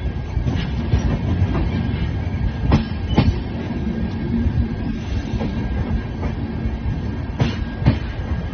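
Passenger train running along the track, heard from its open carriage doorway: a steady rumble, with the wheels clacking over the track in two pairs of sharp knocks about half a second apart, once in the first half and again near the end.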